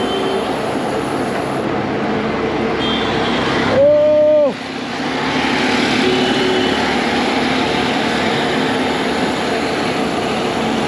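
Fat bike's wide knobby tyres humming and rumbling steadily on pavement while riding. A short, loud, steady beep like a horn sounds about four seconds in.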